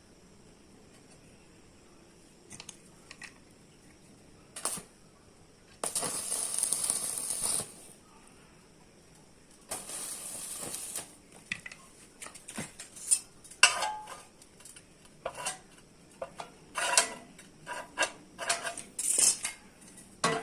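Steel plate and metalworking tools clanking and being tapped, with scattered sharp knocks. There are two bursts of harsh hiss, each a second or two long, about a third and half of the way through, then a busy run of clanks near the end.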